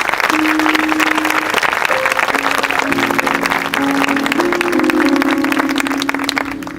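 Audience applauding, while sustained instrumental notes come in: first a single held note, then held chords from about three seconds in. The applause dies away near the end.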